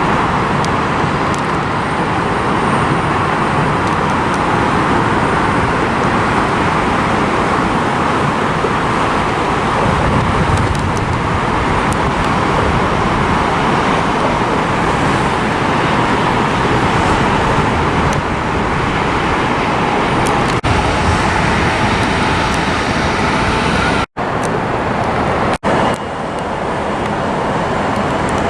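Jet airliner engines running loud and steady: a broad rush of noise with a faint high whine. The sound cuts out abruptly twice near the end.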